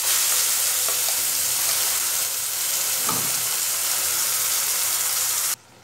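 Wet banana flower and prawn paste sizzling steadily as it is spooned into hot mustard oil in a nonstick kadai. A dull knock comes about three seconds in, and the sizzle cuts off suddenly just before the end.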